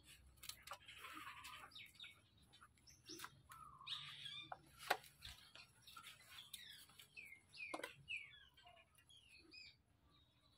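Faint bird chirps: many short, high calls scattered throughout and busier in the second half, with a few sharp clicks between them.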